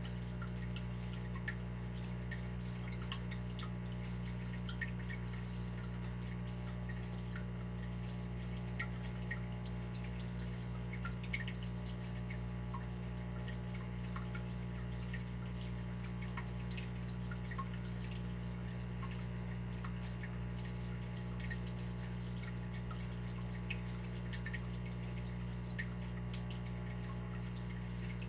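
Water dripping: many small, irregular drips, over a steady low hum.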